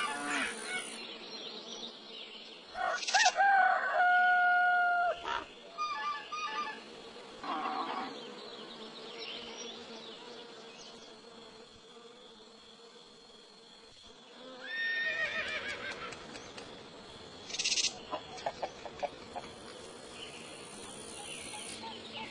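Farmyard sound effects: a rooster crowing about three seconds in, holding a long note, and again around fifteen seconds. Between the crows there is hen clucking and faint small-bird chirping over a low steady hum.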